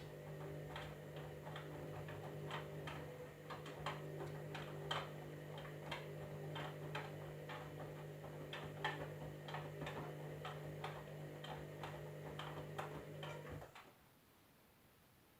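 Candy washing machine running: a steady hum with irregular clicking over it, about two or three clicks a second. Both cut off suddenly near the end.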